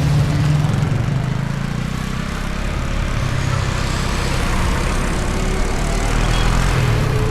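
KTM Duke 250's single-cylinder engine running under way at road speed, with wind and road noise. Its sound eases slightly about two seconds in, then builds again.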